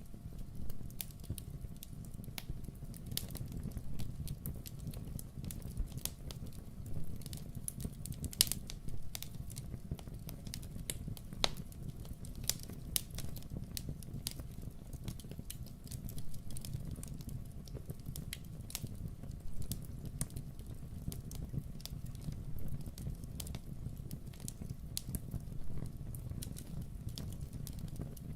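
Wood fire in a fireplace crackling, with irregular sharp pops and snaps, several louder ones, over a low steady rumble.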